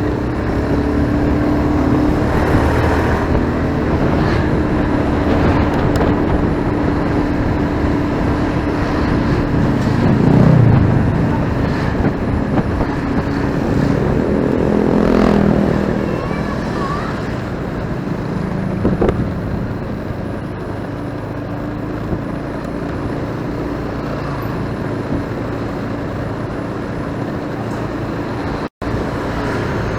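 Motorcycle riding in city traffic: its engine runs steadily under wind and road noise, and other vehicles pass close by, two louder pass-bys coming about ten and fifteen seconds in. The sound drops out for an instant near the end.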